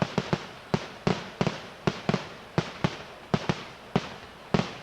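Fireworks going off in quick irregular succession, about three or four sharp bangs a second, each with a short trailing echo.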